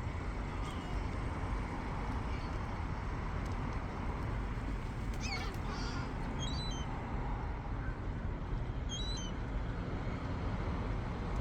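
Seagulls calling over a steady rumble of background noise: one falling call about five seconds in, then a few short high calls.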